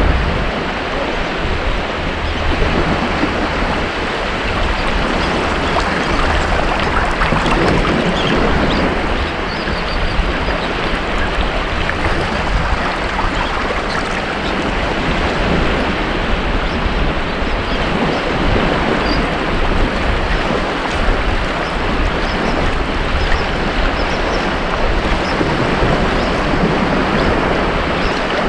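Ocean waves breaking on a beach: a steady wash of surf that swells and eases every few seconds, with wind on the microphone.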